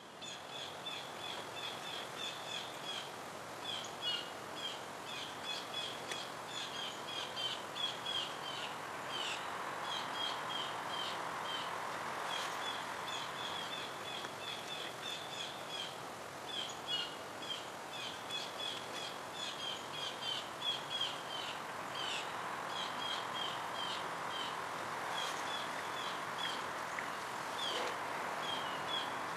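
Small birds chirping in quick runs of short high notes over steady outdoor background noise.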